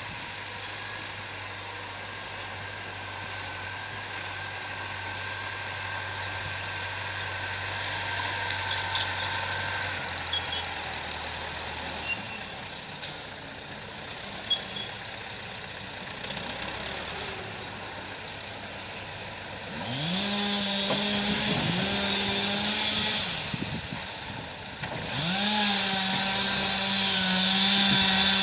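An engine running steadily, then revved hard three times in the last third, each rev a quick rise in pitch that holds high for a second or more.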